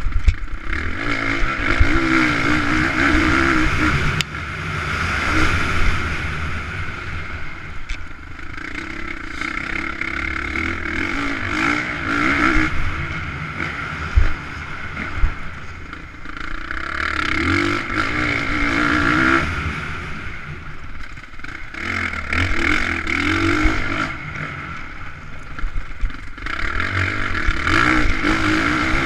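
Motocross dirt-bike engines revving hard and passing, the engine note swelling and fading every few seconds as the bikes come by and move away.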